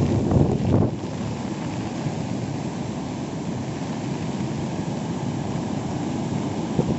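Waterfall rushing with a steady roar. Wind buffets the microphone with louder rumbling for the first second.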